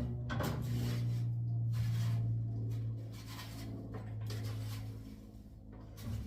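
Repeated scraping strokes on a barn floor as manure is cleaned out, over a steady low hum.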